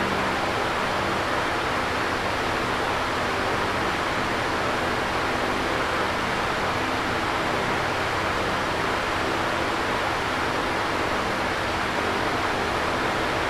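Electric fan running steadily: an even whooshing rush of moving air with a faint low hum from the motor underneath.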